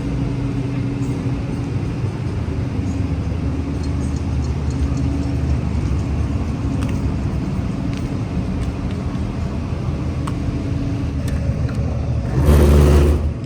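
Steady rumble of a road vehicle running, with a brief louder rush about twelve seconds in.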